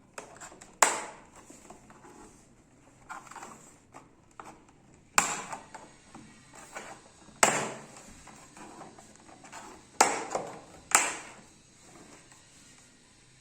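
Plastic snap-fit clips of a monitor's back panel cracking loose as it is pried open with a screwdriver: five sharp snaps spread over about ten seconds, with quieter scraping and handling of the plastic between them.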